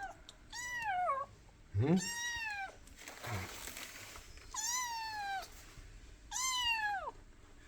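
Kitten meowing four times, high-pitched calls that each rise slightly and then fall away, about a second and a half apart.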